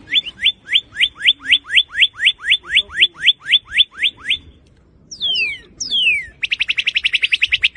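Northern cardinal singing: a quick run of about seventeen clear down-slurred whistles, some four a second, then after a short pause two long falling whistles and a fast trill near the end.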